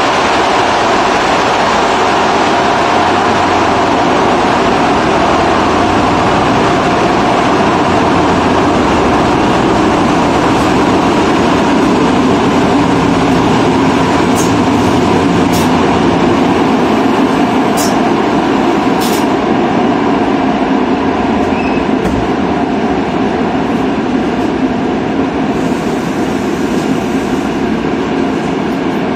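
Interior of a moving passenger train, heard at the doors: a loud, steady running noise of wheels and running gear, with a few short high squeaks in the middle.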